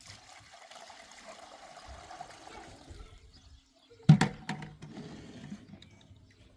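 Water pouring or splashing for about three seconds, then a loud knock about four seconds in that rings briefly.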